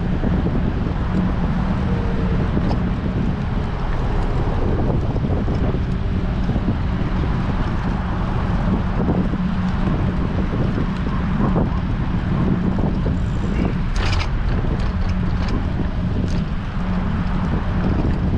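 Heavy wind buffeting an action camera's microphone while cycling in strong wind, a steady dense rumble, with one sharp click about fourteen seconds in.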